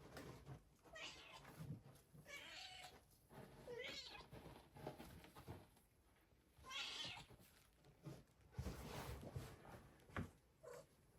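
A domestic cat meowing softly a few times, with rustling and scratching as she rolls about in the bedding of a snake enclosure, and a sharp click near the end.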